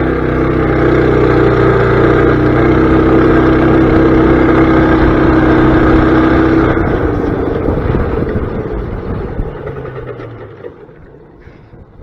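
Mini bike's small gas engine running at a steady high speed, then cutting out about seven seconds in; its note falls and fades over the next few seconds as the bike coasts to a stop. The engine quit right after a water puddle, which the rider takes for the tank running out of gas.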